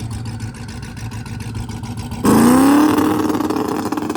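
Car engine running low and steady, then, after an abrupt cut about two seconds in, an engine revs up quickly and holds at high revs.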